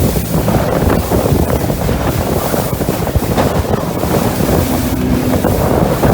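Wind buffeting the microphone on a boat, over a steady rush of water.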